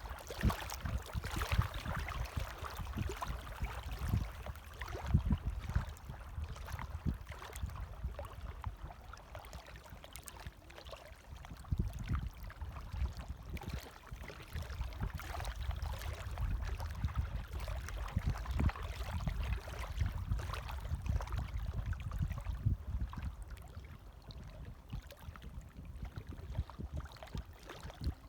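Gentle waves lapping and washing, swelling and easing in slow surges.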